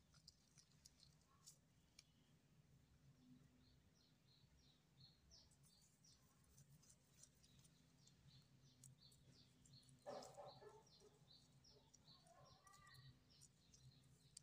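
Near silence with a small bird chirping faintly in the background, short high chirps repeating about twice a second through the second half.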